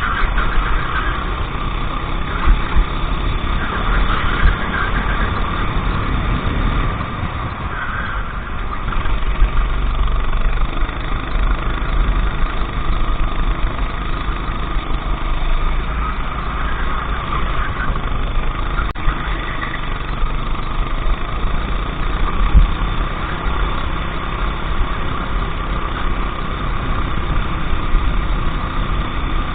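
Go-kart engine running hard on track, its note rising and falling as the kart accelerates and slows through the corners.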